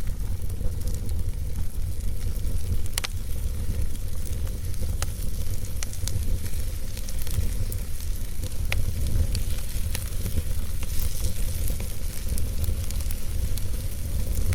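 Fire in a fireplace crackling and hissing over a steady low rumble, with several sharper pops.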